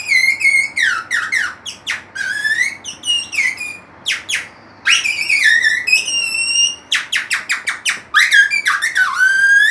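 Bird-call imitation played on a strip cut from a plastic shopping bag used as a reed whistle: a rapid run of shrill chirps and squeaks sliding up and down in pitch, with sharp clicks between them.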